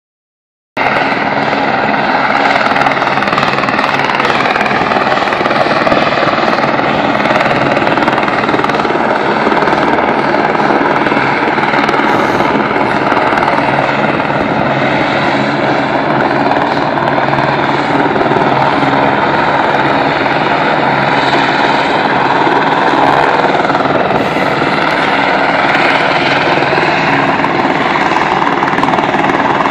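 Rescue helicopter running close by, a loud steady rotor and engine sound whose pitch drifts slowly up and down as it moves.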